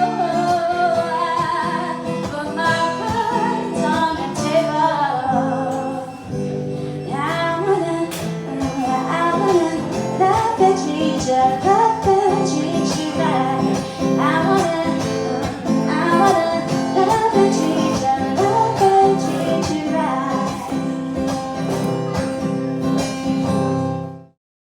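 Live song on acoustic guitar with a singer, plucked guitar under a sung melody. It cuts off abruptly near the end.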